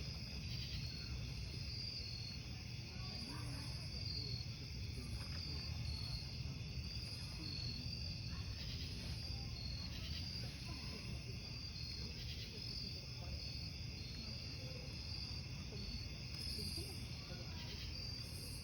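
Crickets chirping in a steady, pulsing trill over the low, even rush of a burning campfire, with a few faint crackles.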